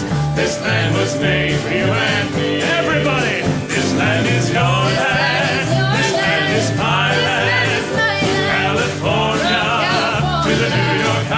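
Country-style band music with a stepping bass line under a wavering melody line, playing without sung lyrics.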